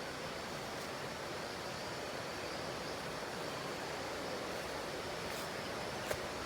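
Steady rush of falling water from a waterfall, an even hiss with no change, and a single brief click near the end.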